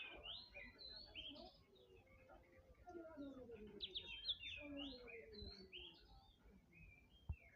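Small songbirds chirping and twittering in quick, short rising calls, with a single sharp click near the end.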